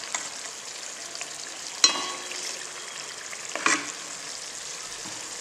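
Chicken masala sizzling in a hot aluminium pot on a gas stove, with a metal utensil knocking against the pot twice, the first knock ringing, about two seconds in and again near four seconds.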